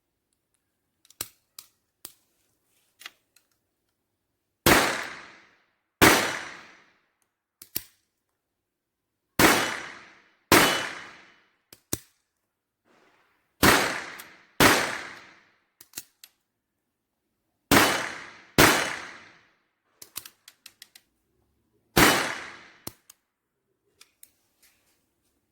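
Taurus PT-22 .22LR pistol firing RWS Subsonic HP cartridges: nine sharp shots, mostly in pairs about a second apart, each ringing out with an echo, with small handling clicks in between.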